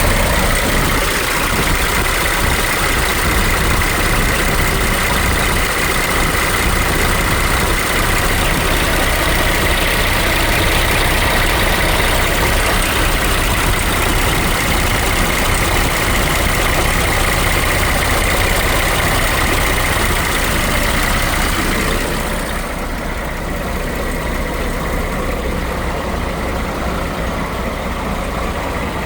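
Scania R420 truck's DT12 14 inline-six diesel engine running steadily at a low, idle-like speed. A steady high whine and hiss over the engine stop about three-quarters of the way through, and the sound gets a little quieter.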